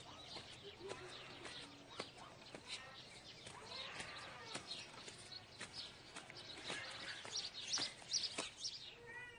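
Faint outdoor ambience: small birds chirping, with children's voices faintly in the background and scattered light clicks.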